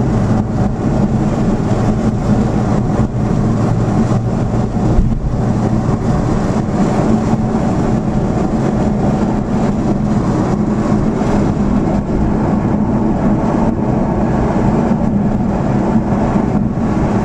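A car driving at a steady pace, its engine and road noise making a continuous low rumble.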